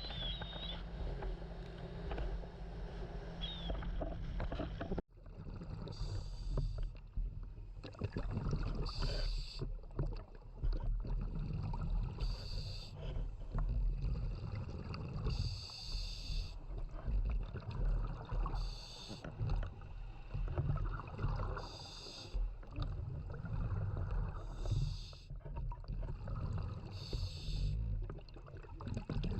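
Scuba diver breathing through a regulator underwater, heard through the camera housing: a short hiss of each inhalation about every three seconds over a steady low rumble of water and bubbles.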